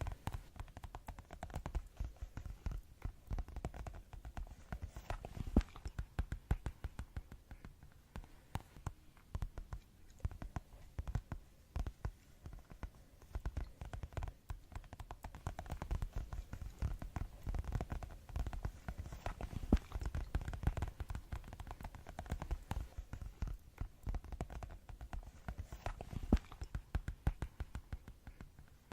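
Fast ASMR tapping: quick, irregular taps, many to the second, going on without pause.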